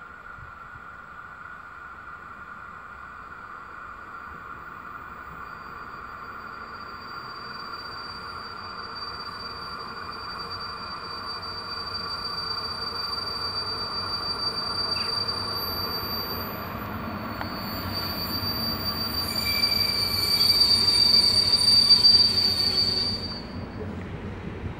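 EP07 electric locomotive and its passenger train approaching: a steady high-pitched whine or squeal that grows louder, with a rising rumble underneath, cutting off suddenly about a second and a half before the end.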